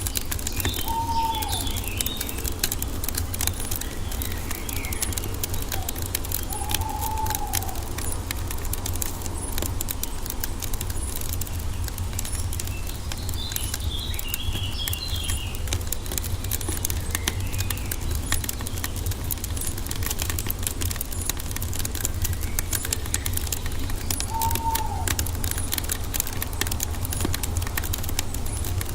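Wood fire crackling steadily with many small pops over a low rumble. A bird gives a short arched call three times, and small birds chirp in brief high clusters twice.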